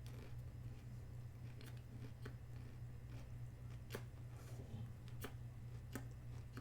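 A person chewing food close to the microphone: scattered sharp, crisp clicks and crackles, about five in all, over a steady low electrical hum.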